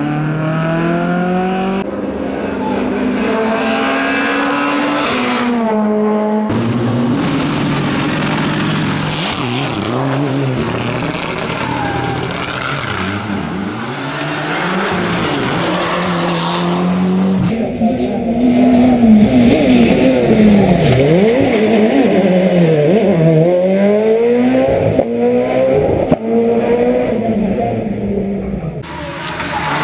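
Rally cars' engines revving hard, pitch climbing through the gears and falling on lifts and downshifts, over several passes cut one after another; the quick rising and falling revs in the second half are the loudest.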